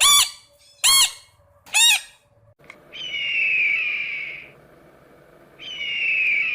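Bird calls: three short, sharp squawks about a second apart, then two long, high, slightly falling calls of about a second and a half each.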